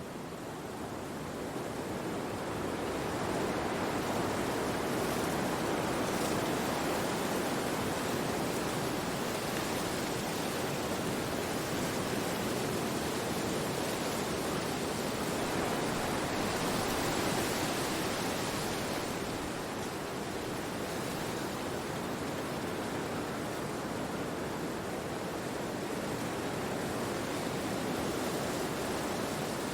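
Wind blowing through forest trees: a steady rushing of leaves that builds over the first few seconds, with a stronger gust a little past halfway.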